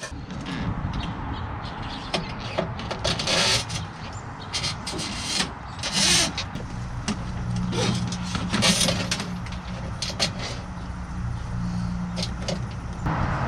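A motor running steadily with a low hum, under scattered clicks and knocks of parts being handled.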